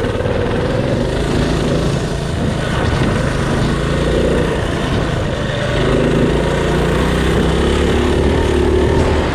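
Mini bike's small engine running hard while the bike is ridden through mud, its pitch shifting a little as the throttle and load change.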